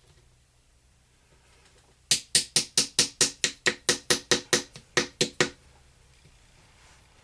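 Small hammer rapidly tapping a chisel into a plaster treasure-dig block: about fifteen sharp strikes, four or five a second, for roughly three and a half seconds, starting about two seconds in.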